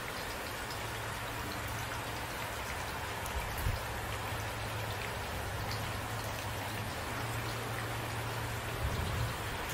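Steady rain falling, with a low steady hum underneath and two brief low thumps, about three and a half and nine seconds in.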